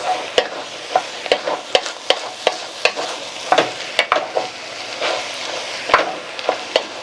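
Chopped beef chuck sizzling as it browns in a pot on the stove, with a utensil stirring it and clicking and scraping against the pot every second or so.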